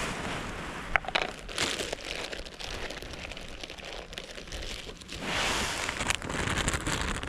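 Crinkling and rustling, with a few sharp clicks about a second in and a louder stretch of rustling past the middle.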